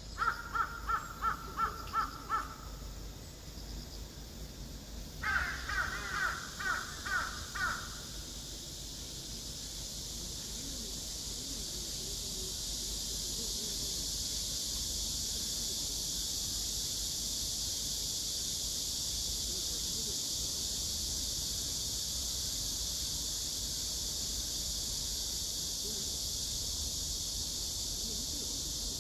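Crow cawing in two runs of short, evenly spaced harsh calls, about three a second. It gives about seven caws, pauses a few seconds, then gives about six more. After that a steady, high-pitched insect chorus swells up and holds.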